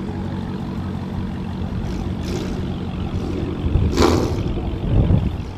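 Car engine running with a steady low drone. A sharp, loud burst comes about four seconds in, and a deeper surge follows about a second later.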